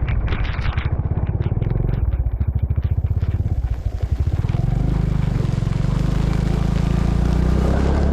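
Small motorcycle engine running under way. It drops to slower, separate firing pulses about two seconds in, then picks up again to a steady, even hum about five seconds in.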